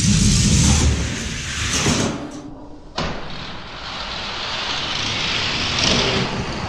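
Diecast toy cars rolling fast down a racing track: a loud rolling rumble and rattle. It breaks off abruptly about two and a half seconds in, and a similar rolling rumble starts again at three seconds.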